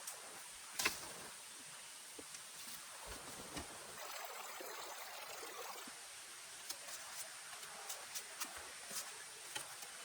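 Quiet outdoor water sound, a steady trickling and dripping, with scattered sharp ticks and one louder click about a second in.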